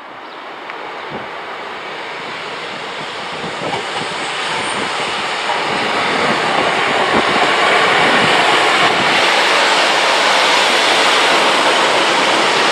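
Northern Sprinter diesel multiple unit approaching and running past along the platform, growing steadily louder over about eight seconds and then holding level as the carriages go by.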